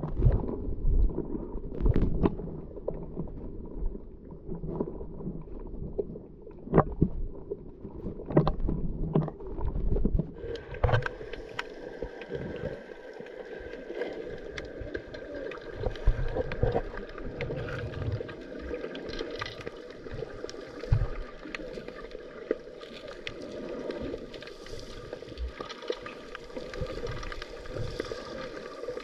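Muffled underwater sound picked up by a camera in a waterproof housing on a scuba dive: a low rumble and gurgling with scattered sharp knocks. About ten seconds in, a steady hiss with faint steady tones joins in.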